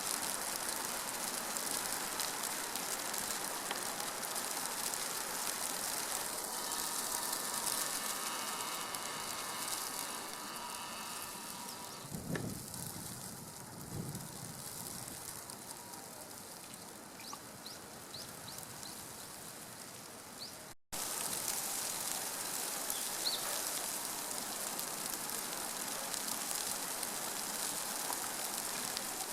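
Steady outdoor hiss, with a faint steady hum of several tones between about 6 and 12 seconds in and a brief cut-out about 21 seconds in.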